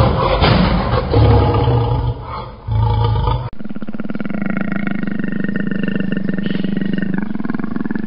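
Big cat growling: loud, uneven growls for about the first three and a half seconds, then an abrupt change to a steady growl with a fast, even pulse.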